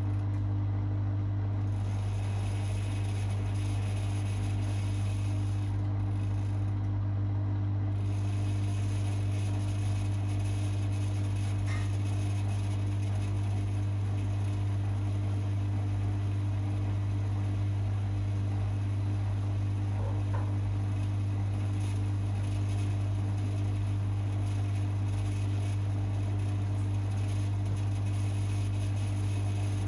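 Privileg 5020 front-loading washing machine running steadily, its motor giving a constant low hum without pause; the owner hears in the motor the wear of years of use in a laundry.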